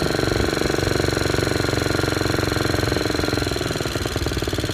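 Old single-cylinder Briggs & Stratton engine on a motorized bicycle running steadily under way, with a rapid, even beat.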